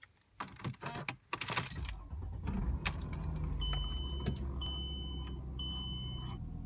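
Key clicking and rattling in the ignition of a 2005 Mercedes CLK 320, then its 3.2-litre V6 starts about two seconds in and settles into a steady idle. Three short dashboard chimes sound over the idle, about a second apart.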